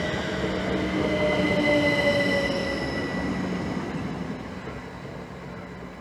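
Class 387 Electrostar electric multiple unit slowing into the platform: a high squealing whine that drifts slightly lower in pitch over a rumble, fading away as the train comes to a stop.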